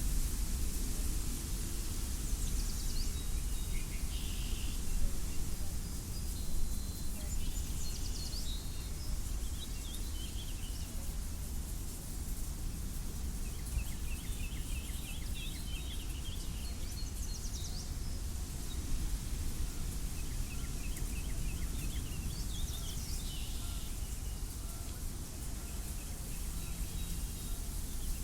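Wind blowing across an open wheat field, a steady low rumble, with small birds calling in short chirps and trills every few seconds.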